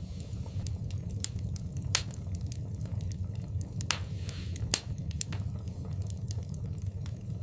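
Wood fire crackling in a fireplace: irregular sharp pops and snaps over a steady low rumble of the flames, with the two loudest pops about two seconds in and just before five seconds.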